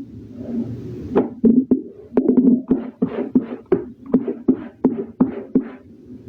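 Wet laundry being scrubbed by hand in quick rhythmic strokes, about two to three a second, starting about a second in and stopping shortly before the end.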